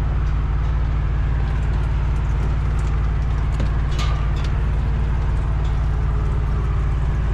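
Steady low engine rumble, like a diesel idling, with a few light clicks and knocks over it.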